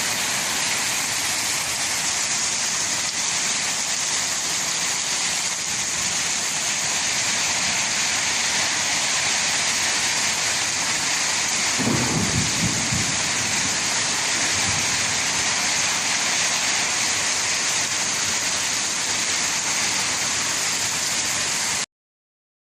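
Steady heavy rain falling in a thunderstorm, an even hiss, with a short low rumble of thunder about twelve seconds in. The sound cuts off suddenly near the end.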